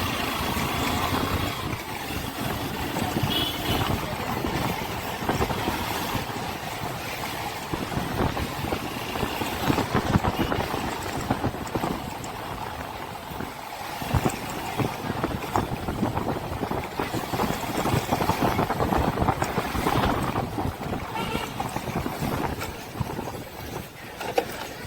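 A motorcycle being ridden on the road, its engine running under steady wind and road noise on the action camera's microphone, with a brief lull about halfway through.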